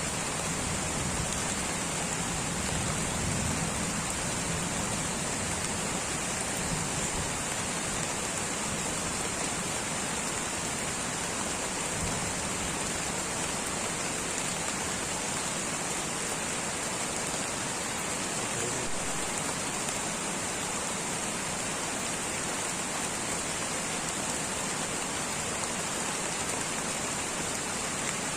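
Light rain falling steadily in tropical rainforest, an even patter with no single drops standing out.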